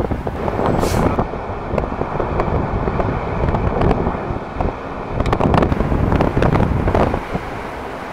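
Wind buffeting the microphone in gusts, with a faint steady tone from about a second in to about five seconds in.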